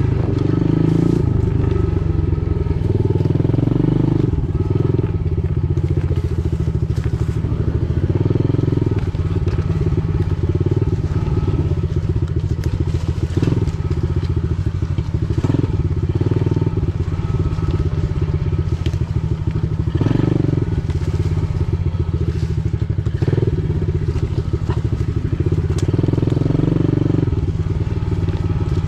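Pit bike engine running continuously while being ridden, the throttle opening and easing every second or two.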